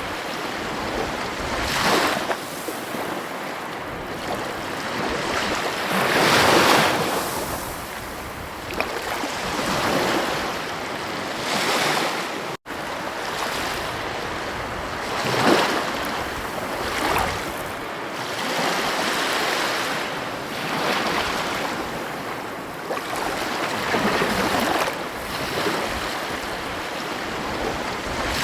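Ocean waves breaking on a beach: a steady wash of surf that swells into louder surges every few seconds, with a momentary gap in the sound about halfway through.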